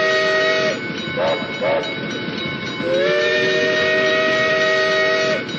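Steam locomotive chime whistle sounding a three-note chord: a long blast that ends shortly in, two short toots, then a second long blast that slides up in pitch as it opens and holds steady.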